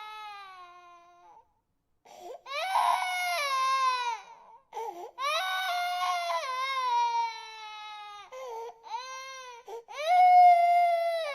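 Baby crying: a wail fades out, a silent pause of about a second follows, then a run of wails each falling in pitch, with short breaks between them. The loudest wail comes near the end.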